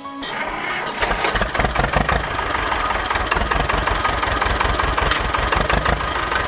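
Small engine of a homemade mini tractor catching and then running steadily with a rapid, even firing beat from about a second in.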